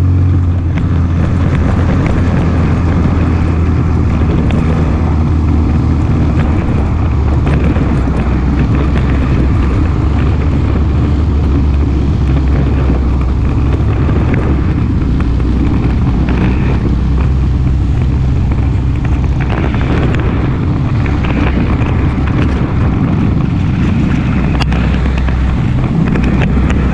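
ATV engine running loud and close, with a steady low note.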